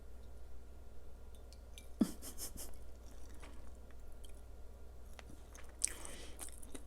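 A person chewing a full mouthful of food close to the microphone. There is a sharp crunch about two seconds in and more crunching near the end.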